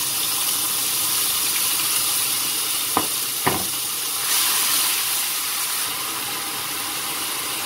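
Ground chili sambal paste sizzling in hot oil in a frying pan as it is scraped in and stirred with a spatula, with two sharp knocks about three seconds in.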